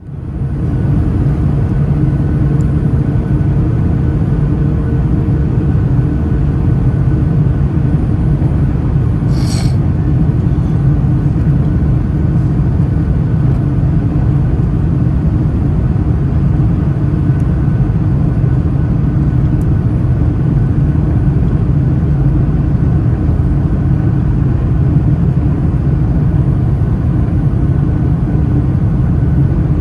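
Steady rumble of jet engine and airflow noise inside the passenger cabin of a Boeing 757-200 on its landing approach. A brief hiss cuts in about nine and a half seconds in.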